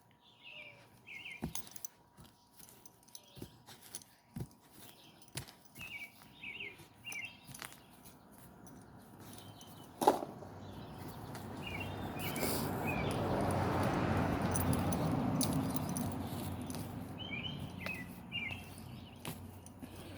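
Small songbirds chirping in short repeated bursts, with scattered light clicks and taps. A sharp knock comes about halfway through, then a broad rushing noise swells for several seconds and fades away.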